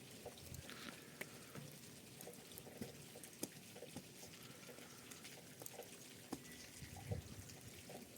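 Faint, scattered ticks and taps over a quiet hiss, with a slightly louder knock about seven seconds in.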